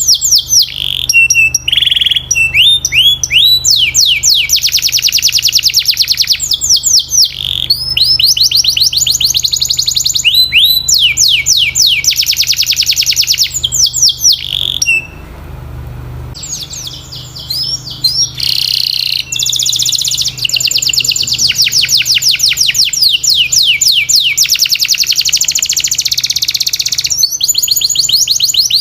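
Domestic canary singing a long song of fast, high trills of evenly repeated notes, one run after another, with a short break about halfway through.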